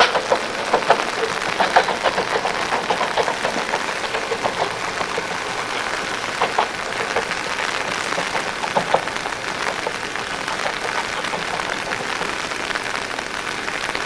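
Steady rain falling, with many drops striking close by as sharp little ticks.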